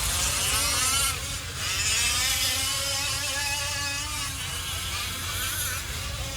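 Several 1/5-scale RC off-road trucks racing, their small two-stroke gas engines buzzing and revving up and down over one another. The sound drops briefly about a second in.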